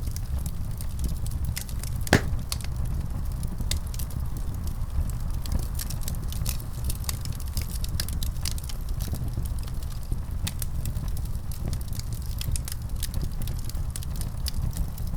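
Wood fire crackling in a fireplace: a steady low rumble of flames under frequent sharp pops and ticks, one louder pop about two seconds in.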